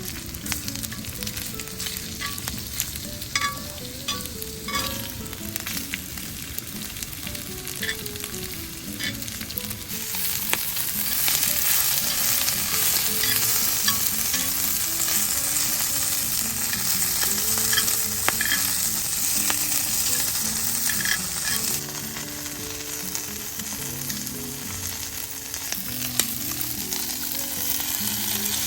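Food sizzling in a frying pan, with clicks and scrapes of a utensil stirring it; the sizzle gets louder about ten seconds in. Soft background music plays underneath.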